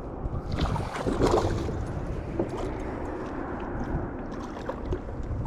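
Water splashing and sloshing around a kayak while a hooked fish is fought, with a cluster of sharp splashes and knocks about a second in.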